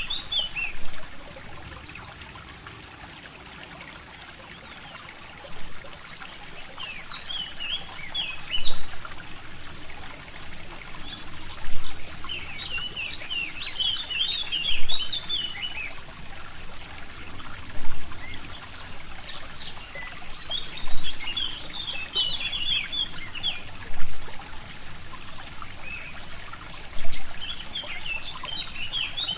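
Forest brook trickling steadily while small songbirds chirp and twitter in scattered bursts, the birds silent for the first few seconds. A short, louder pulse recurs about every three seconds.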